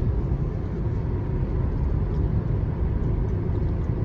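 Steady low road and tyre rumble heard inside a moving Tesla electric car's cabin.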